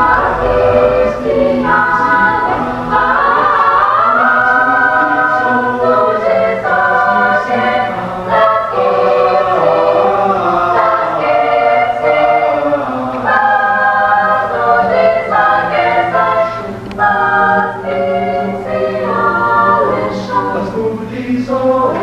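Choir singing in several voice parts, with held notes and chords that shift from one to the next.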